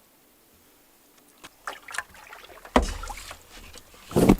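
Canoe paddling sounds: a few light taps about a second and a half in, then louder knocks of a paddle or gear against the canoe's hull near three seconds in and again near the end, with a low rumble between them.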